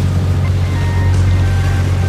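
Canal tour boat's diesel engine running steadily with a low, even hum, with faint short high tones scattered above it.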